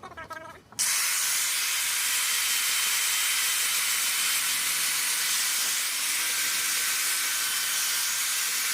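A jet of compressed air hissing steadily from a nozzle, starting suddenly about a second in.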